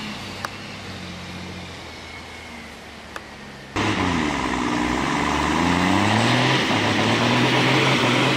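Heavy truck's diesel engine running under load. About four seconds in it cuts abruptly to a louder engine whose pitch dips and then climbs again.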